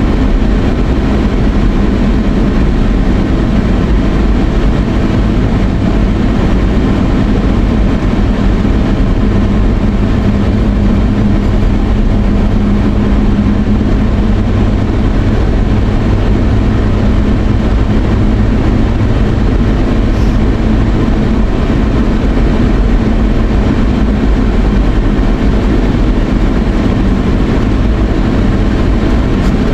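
Steady rumble of a car on the move, engine and road noise heard from inside the cabin, unchanging throughout.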